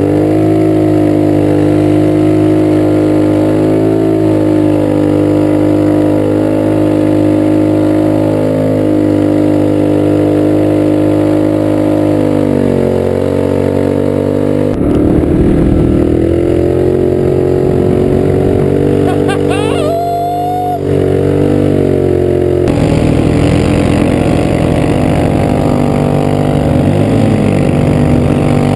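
Roketa GK-06 go-kart's swapped-in Polaris Sportsman 850cc twin-cylinder engine running under load, its pitch rising and falling with the throttle, with a brief drop about twenty seconds in.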